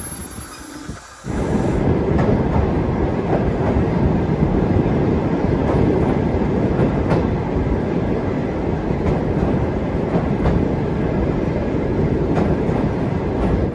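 Train carriage running on the rails: a loud, steady rumble and rattle with occasional clacks from the wheels, starting abruptly about a second in.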